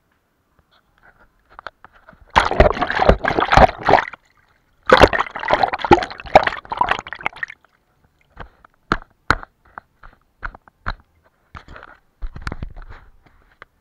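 Paintbrush swished vigorously in a jar of water in two rapid bursts of sloshing and clinking, rinsing out watercolour paint. This is followed by a series of light, separate taps and clicks.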